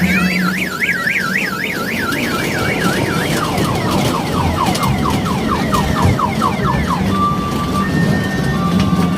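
Electronic alarm siren cycling through its patterns: a fast up-and-down warble, then a run of quick rising chirps about four a second, then evenly spaced steady beeps near the end.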